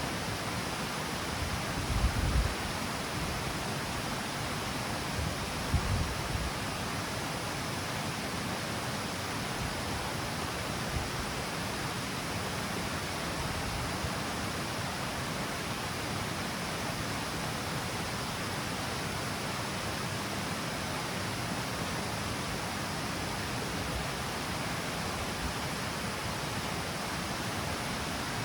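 Water pouring over the stepped cascade of a river weir: a steady, even rushing, with a couple of brief low thumps about 2 and 6 seconds in.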